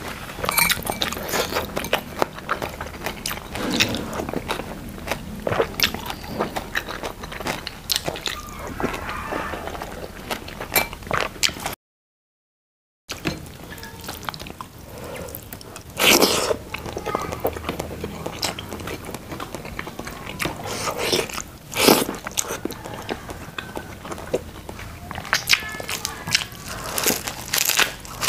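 A person chewing and crunching food close to a clip-on microphone, with many short sharp crunches and wet mouth sounds while eating rice, fried fish and raw lettuce by hand. The sound drops out completely for about a second near the middle.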